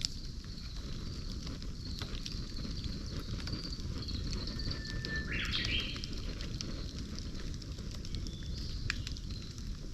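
Campfire burning with a steady low rumble and scattered sharp pops and crackles. A bird gives a short call about five seconds in.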